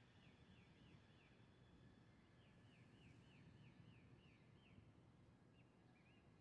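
Faint bird song: runs of quick, repeated down-slurred whistled notes. One run comes at the start and another about halfway through, and near the end the notes change to short arching ones. A faint low rumble sits underneath.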